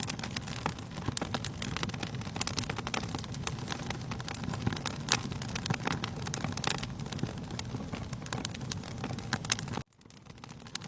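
Wood fire in a fireplace crackling and popping steadily over a low rumble of the flames. The sound cuts out abruptly near the end and returns a moment later.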